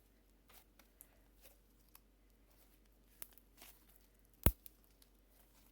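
Homemade glue slime being stretched and pressed by hand, giving faint sticky crackles and small pops, with one sharp click about four and a half seconds in.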